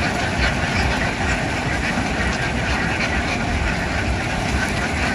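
A large flock of ducks quacking all at once, a dense unbroken chatter over the steady low rumble of a running engine.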